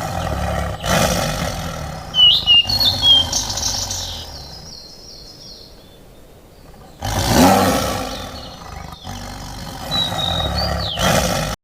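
Rainforest ambience: short chirping bird calls over low animal roars, the loudest roar coming about seven seconds in.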